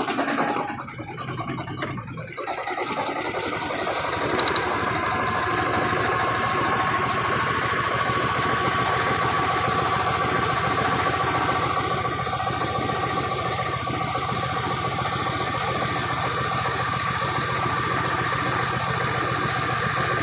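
Detroit Diesel Series 60 11.1-litre inline-six diesel idling rough, running on only about two cylinders from bad injectors, with valves the owner suspects are sticking and a slight knock. It sags briefly a second or two in, then runs steadily with a thin whine slowly rising in pitch.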